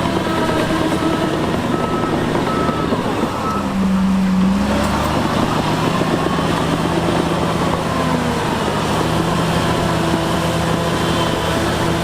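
Heavy diesel earthmoving machinery running steadily, with a reversing alarm beeping at a regular pace that stops about three and a half seconds in. The engine note changes about four seconds in.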